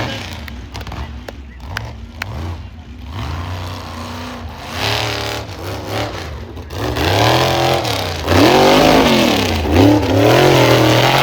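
Monster truck engine revving hard, its pitch swinging up and down over and over as the throttle is blipped, growing louder over the second half; quieter engine running with a few knocks before that.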